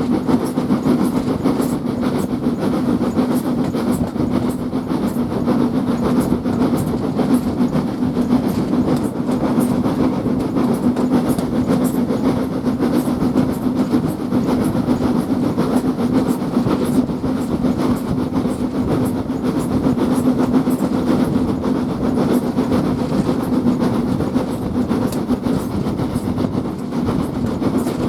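Railway carriage running along the track: a steady rumble of steel wheels on rail with a constant stream of small clicks.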